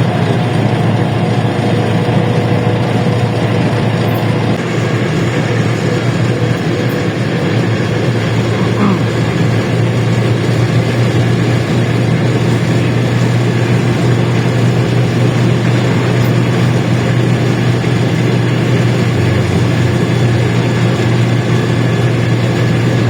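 A LiAZ-677M bus's V8 petrol engine running steadily as the bus drives, a constant low drone with road and body noise over it.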